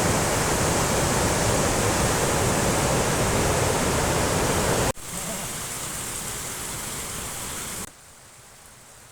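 A swollen, flooding river rushing loudly and steadily. It cuts off suddenly after about five seconds to a quieter rush of water, which drops again to a faint one near the end.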